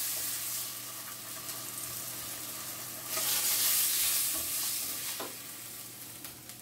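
Marinated salmon fillets sizzling in oil in a frying pan. The sizzle swells again about three seconds in and dies down near the end as the fillets are lifted out with tongs.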